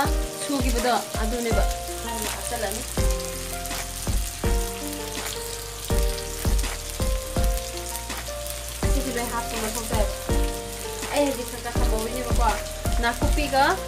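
Onion and ginger paste sizzling in hot oil in a wok: a steady frying hiss. Background music plays over it.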